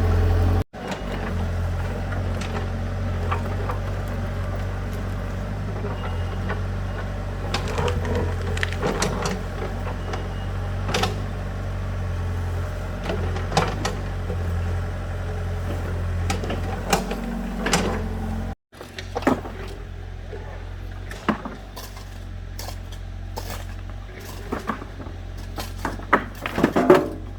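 A vehicle engine running steadily at a low drone, with scattered knocks and clatter throughout and faint voices. The drone drops in level after a sudden cut about two-thirds of the way in.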